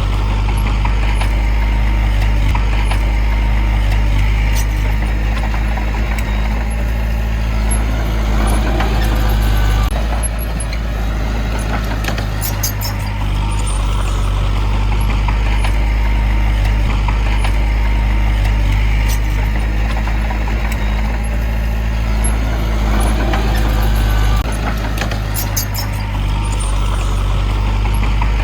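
Heavy diesel engine of earthmoving machinery running steadily with a low drone, swelling a little now and then, with a few sharp clicks near the middle and near the end.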